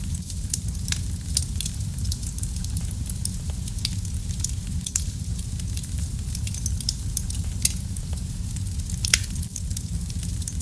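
Wood fire burning in a fireplace: a steady low rumble of flames under constant crackling, with frequent sharp pops and snaps and a few louder pops in the second half.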